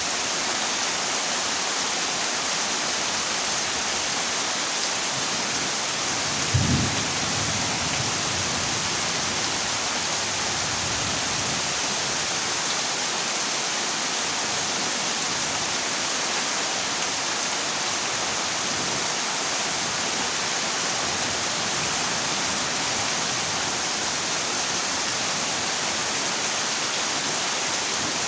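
Heavy rain falling steadily on a corrugated zinc roof, an even hiss, with one short low clap of thunder about six and a half seconds in.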